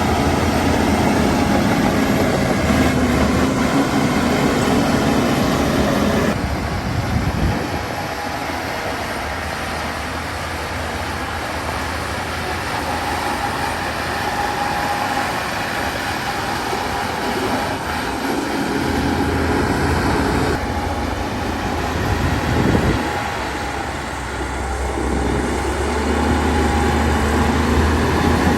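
Heavy diesel engine of a Shantui DH17 crawler bulldozer running under changing load. The engine note drops about six seconds in and picks up again later.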